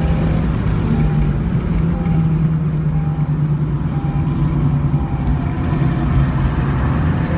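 Acura ILX's four-cylinder engine running steadily at speed on track, a continuous drone that sags slightly in pitch midway and then holds. Faint short beeps recur about once a second over it.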